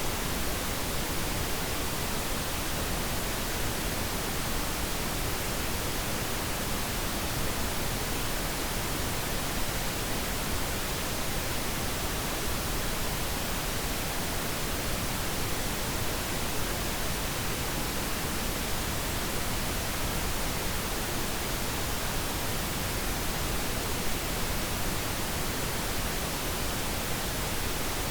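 Pink noise: an even, steady hiss of synthetic noise at a constant level, with no changes.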